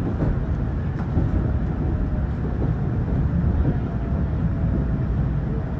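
An 800 Series Shinkansen running, heard from inside the passenger car: a steady low rumble of the running gear on the track, with a faint steady tone above it.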